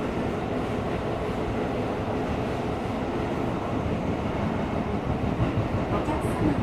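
Tokyo Metro 17000 series subway train running at speed between stations, heard from inside the car: a steady rumble of wheels on rail in the tunnel, with a few faint light ticks near the end.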